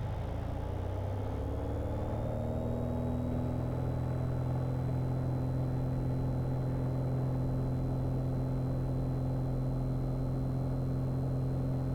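Light airplane's engine at takeoff power for a short-field takeoff roll, its pitch rising over the first few seconds as power comes up, then running steady.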